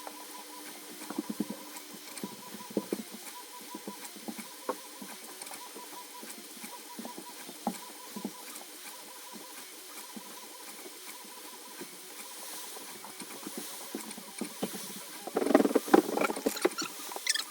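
3D printer running a print: stepper motors whirring and chirping, with small ticks and short squeaky tones that sound like mice, and a louder run of squeaky movement near the end.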